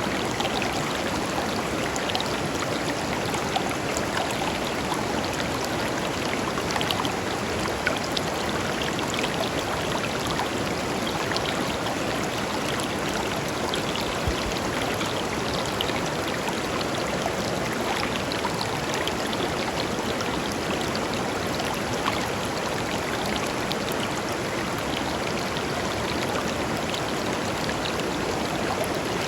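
A clear river flowing steadily over stones: an even rush of water dotted with many small splashes and trickles.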